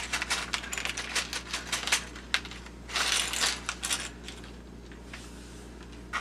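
Small plastic gears clicking and clattering against each other as they are picked through by hand, a dense run of quick clicks for about two seconds, then a brief rustle about three seconds in and a few scattered clicks after.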